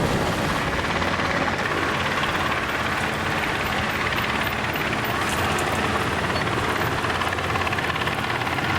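A steady, even engine drone with a low hum, with no change in pace or pitch.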